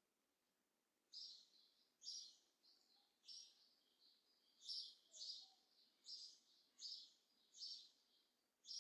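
Faint bird chirping: a dozen or so short, high chirps repeated at about one a second, beginning about a second in.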